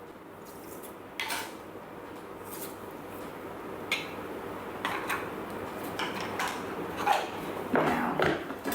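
Scattered clicks and knocks of kitchen utensils and containers being handled, more of them near the end, over a faint steady background hiss.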